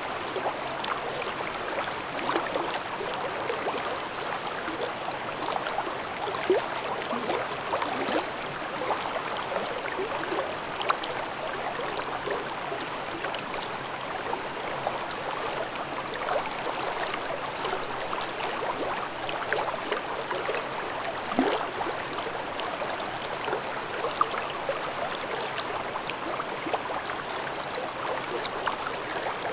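Babbling mountain stream: water running and gurgling over rocks, a steady rush with many small splashes and bubbling blips.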